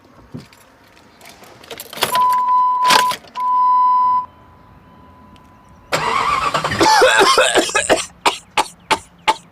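Two steady beeps, then the 1997 Jeep Grand Cherokee's engine cranks and catches, running rough with a run of sharp pops about three a second that is taken for trouble in the exhaust system.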